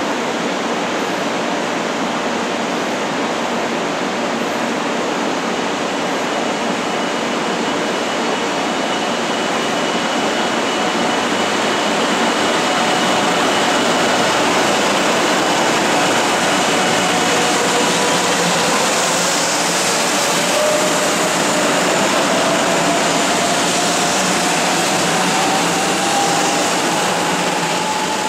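500 series Shinkansen pulling out of the station: a steady rushing noise that grows louder as the train starts moving, with a whine rising in pitch over the last third as it picks up speed.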